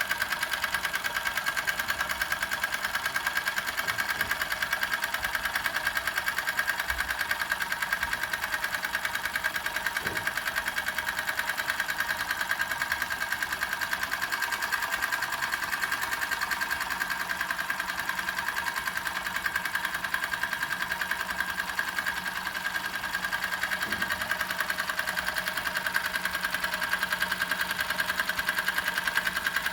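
Doll 511/3 toy steam engine running steadily, a rapid, even mechanical beat with no change in speed.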